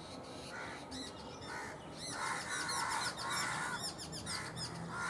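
Several birds calling together: many quick, high chirps over a repeated lower, harsher call.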